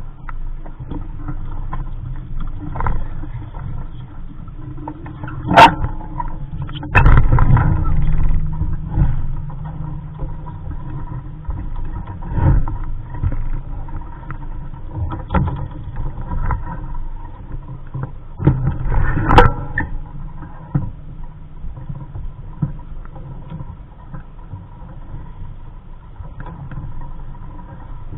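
Sailing sounds aboard a Capri Coronado 15 small sailboat under way: a steady rumbling noise with a few sharp knocks, the loudest about six seconds in and again near nineteen seconds.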